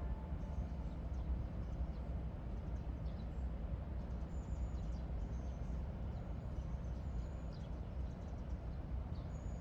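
Outdoor park ambience: a steady low background rumble, with small birds chirping in short high notes, more often in the second half.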